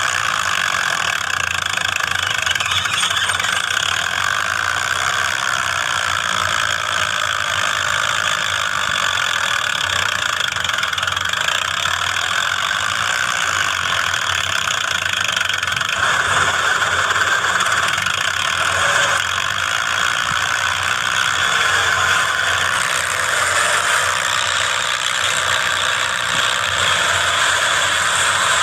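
Preet tractor's diesel engine running steadily, growing a little louder about halfway through.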